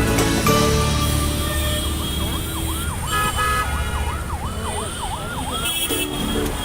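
A siren sounding in quick rising-and-falling sweeps, about three a second, over a low traffic rumble. It starts about two seconds in and stops about a second before the end.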